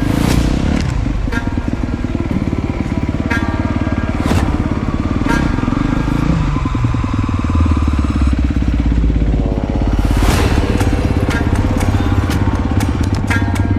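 Dirt bike engine revving hard, its pitch rising and falling as the throttle is worked, with some sharp knocks mixed in.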